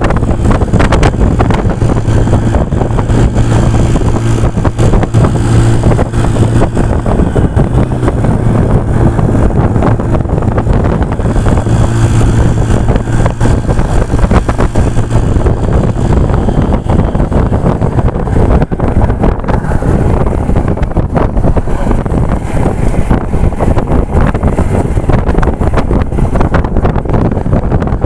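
Motorcycle on the move: its engine runs with a steady low note under heavy wind buffeting on the microphone. The engine note fades about halfway through, leaving mostly wind noise.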